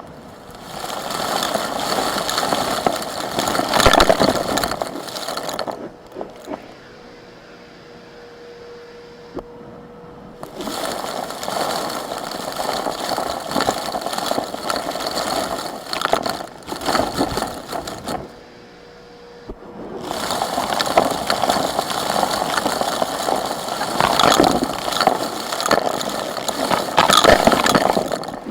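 Vacuum cleaner sucking up small rocks and grit, which rattle and scrape through the nozzle in three long stretches. Between them a fainter steady hum carries on.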